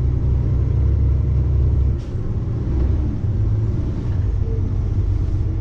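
Diesel truck engine running under load, heard from inside the cab as the truck drives over rough ground: a steady low rumble with a brief click and dip about two seconds in.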